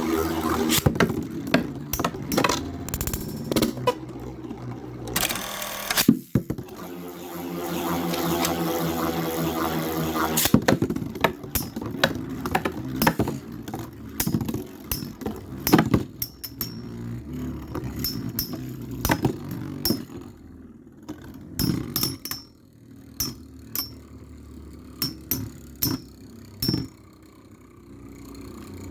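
Two Metal Fight Beyblade tops, Storm Pegasis 105RF and Rock Aries ED145B, spinning in a plastic stadium with a whirring hum, and repeated sharp clacks as their metal wheels collide. The hits come thick in the first half and grow sparser and fainter near the end.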